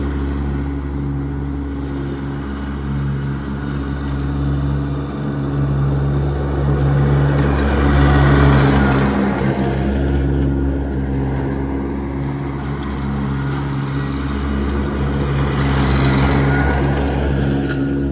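Iseki tractor engine running steadily while mowing grass, growing louder around the middle and again near the end.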